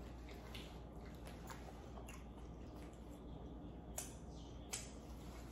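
Quiet chewing and wet mouth sounds as a person eats a bite of lobster, with scattered soft clicks and two sharper clicks about four and four and three-quarter seconds in.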